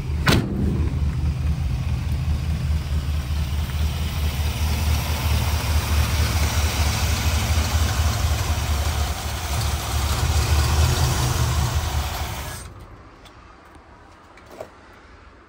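327 V8 engine of a hot-rodded 1956 Ford F100 panel truck running steadily, with a sharp click just after the start. The engine sound cuts off about three-quarters of the way through.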